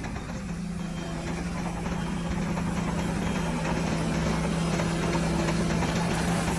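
Heavy diesel engine of earthmoving machinery running steadily, getting slightly louder partway through.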